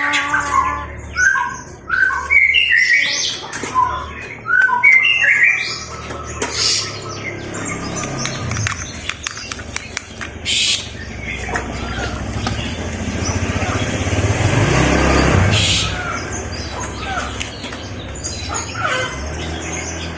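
A kolibri ninja sunbird chirping and calling in short, quick high notes, thinning out after the first few seconds. A rushing noise swells and fades in the middle.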